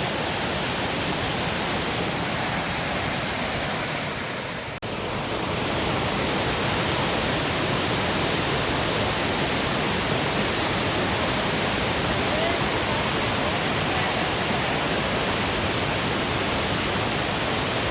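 Waterfall, a steady rush of falling water. It breaks off briefly about five seconds in and comes back slightly louder.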